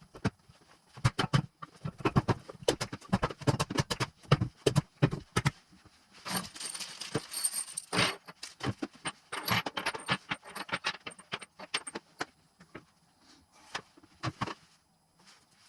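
Metal tools and engine parts clinking and knocking as they are handled, a run of sharp separate clicks with a denser metallic jingle about six to eight seconds in, thinning out near the end.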